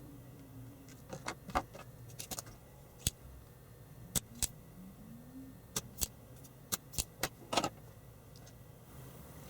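Small sharp clicks and taps, about a dozen at irregular intervals, from handling tools and a resistor while a replacement resistor is fitted into an amplifier circuit board.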